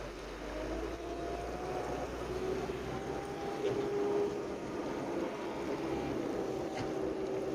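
Skid steer engine running steadily, its pitch rising slightly in the first second and then holding.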